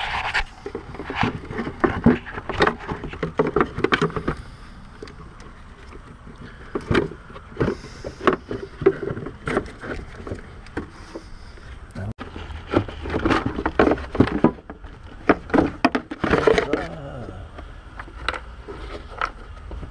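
Irregular clicks, knocks and scrapes of hand work on car parts, with busier bursts of clattering a little after the start and again in the second half.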